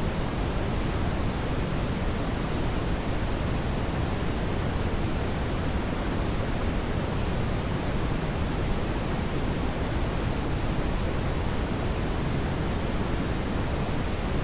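Brown noise: a steady, even rushing hiss weighted toward the low end, with no changes.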